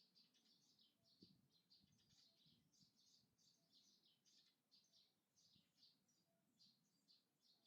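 Faint birdsong: many short high chirps repeated quickly throughout.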